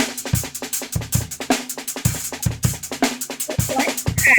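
Drum kit played in a fast, busy groove: regular bass drum hits under dense snare and cymbal strokes.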